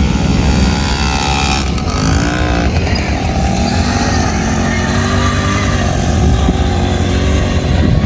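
Motor vehicle engine running, its pitch rising and falling about two seconds in.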